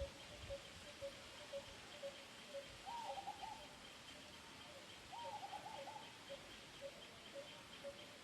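Birds calling in the background: one bird repeats a single low note about twice a second throughout, and twice a short run of quick, higher calls breaks in.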